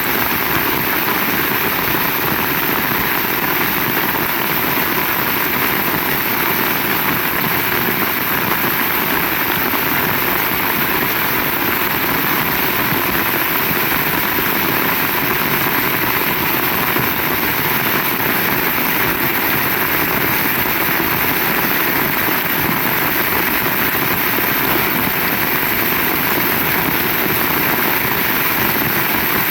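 Heavy rain falling steadily, a dense and even hiss with no breaks.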